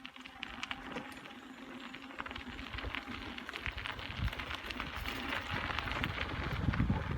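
Bicycle rolling along a rough trail: many scattered clicks and crunches from the tyres. Wind rumble on the microphone builds towards the end.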